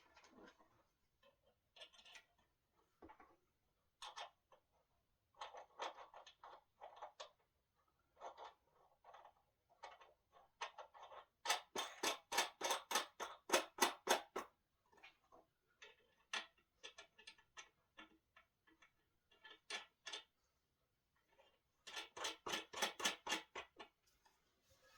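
Ratcheting hand tool clicking in quick runs of several clicks a second as bolts are tightened while a wooden dining table is assembled, with the longest and loudest runs about halfway through and near the end.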